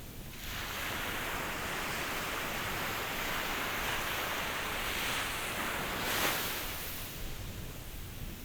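Ocean surf: a wave rushes in about half a second in, holds as a broad hiss, crests in a brief sharper hiss around six seconds, then washes back and fades.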